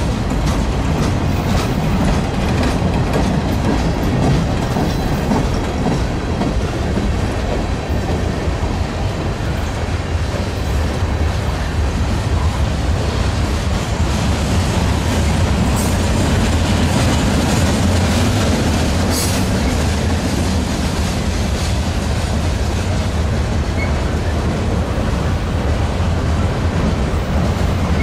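Freight train's boxcars and covered hopper cars rolling past close by: a loud, steady rumble of steel wheels on rail with constant clicking and clacking from the wheels.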